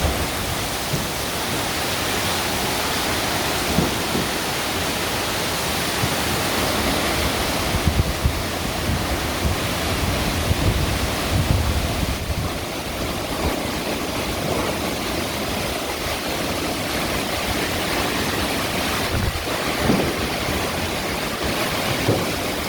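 Tropical storm: strong wind with a steady rush of water, and gusts buffeting the microphone now and then.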